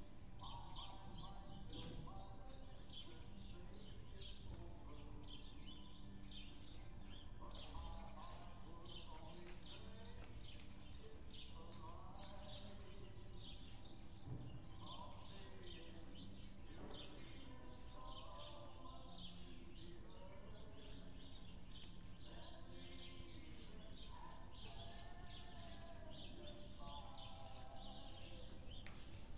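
Small birds chirping continually over a low background hum.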